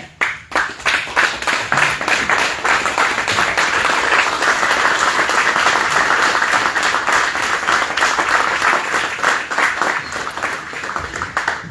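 Crowd applauding in a room, starting just after a toast ends, building to a steady peak and tapering off near the end.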